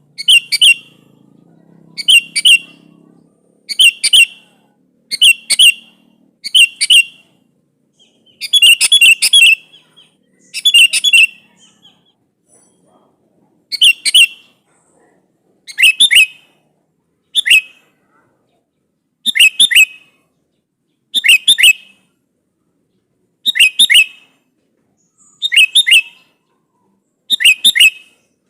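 Sooty-headed bulbul (kutilang) giving short, loud chirping call phrases, one about every two seconds, with a brief pause near the middle. It is a rival-challenge call of the kind used to lure other bulbuls into answering.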